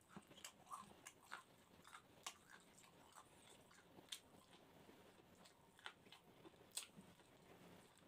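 Faint, close-up chewing of grilled chicken gizzard and rice, with irregular wet clicks and smacks of the mouth.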